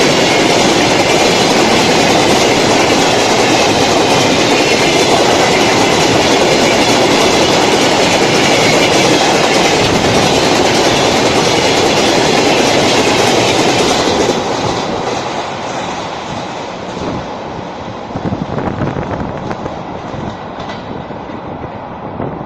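Freight train wagons rolling past on the rails, a loud steady rumble with clickety-clack from the wheels. About fourteen seconds in the noise falls away sharply and carries on quieter and more uneven as the train moves off.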